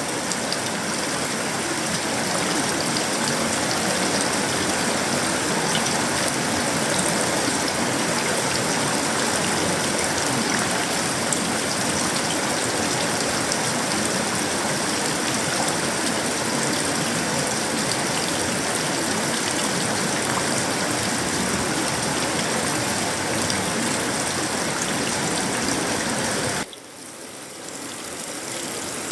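Heavy tropical rain falling steadily on sheet-metal roofing, wood and leaves, a dense, even hiss. Near the end it drops off abruptly, then swells back up.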